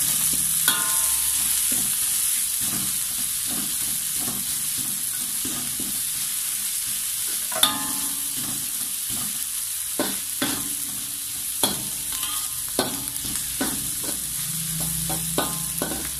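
Shallots, garlic, curry leaves and whole spices sizzling in oil in a metal wok, stirred with a metal spatula that scrapes and clinks against the pan, the sharpest clink about eight seconds in. The spices are frying until fragrant, before the curry paste goes in.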